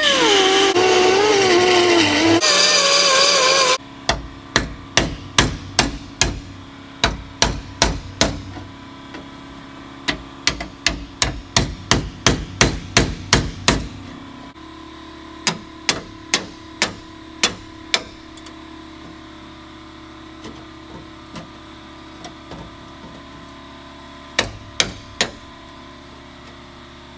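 A power tool runs loudly, its pitch sagging, and cuts off about four seconds in. Then a hammer strikes the car's sheet-metal body structure in a fast run of blows, about two a second for ten seconds, followed by scattered single blows and a short burst of three or four near the end, as a damaged panel is knocked loose.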